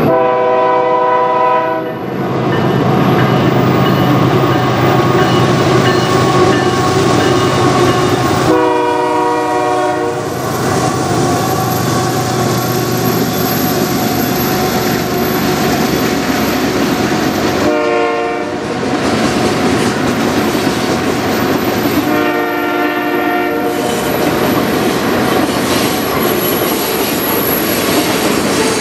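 Canadian Pacific freight train rolling past with its wheels clacking over the rail joints, while the locomotive's air horn sounds four blasts spread out: long, long, short, long, the grade-crossing signal.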